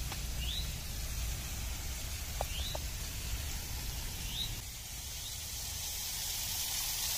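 A bird repeats a short rising chirp about every two seconds. Near the end, the rushing of a small waterfall spilling over stone grows louder.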